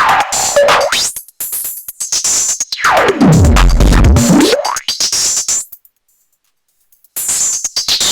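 Electronic drum-machine and synth loop run through an Erica Synths Black series Eurorack filter, the cutoff swept down near the start and then swept deep down and back up again, bringing up a strong bass. About six seconds in the sound cuts out for a second or so, then the beat comes back in.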